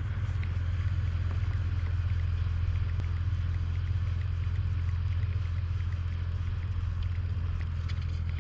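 Steady low hum of a boat motor running, even throughout.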